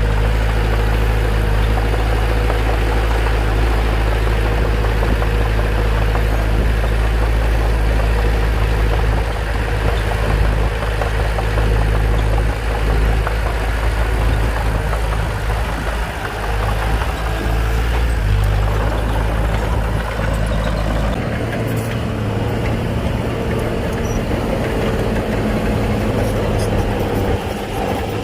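Bulldozer's diesel engine running steadily with a deep drone; the lowest part of the drone drops away about three quarters of the way through.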